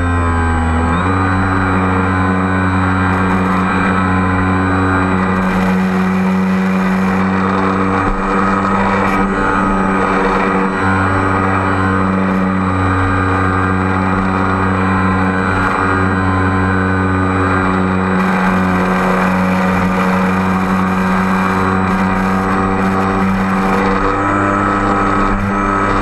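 Motors and propellers of a radio-controlled aerial-photography aircraft humming steadily in flight, the pitch stepping up about a second in, with occasional patches of hiss.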